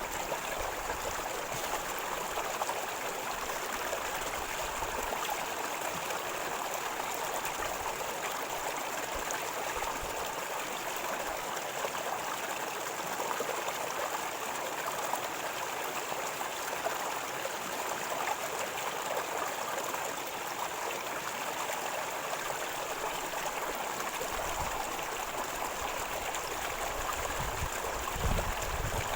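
River water flowing and gurgling over stones, a steady rushing with no pauses. A few low thumps come in near the end.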